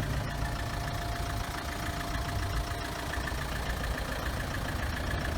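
Vehicle engine idling steadily, with a faint steady tone over it for the first few seconds.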